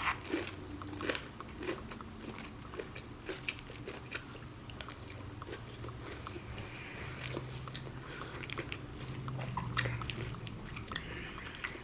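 Close-up eating sounds: a person biting and chewing crunchy breaded chicken katsu, many short crunches and mouth clicks at an uneven pace.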